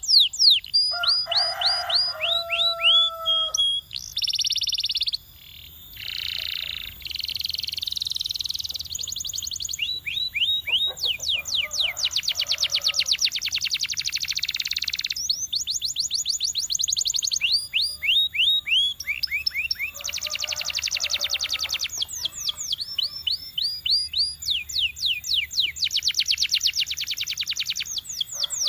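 Domestic canary singing a long, continuous song of rapid rolls: fast runs of repeated downward-sweeping notes alternating with buzzy trills, and a brief pair of steady lower whistles a second or two in.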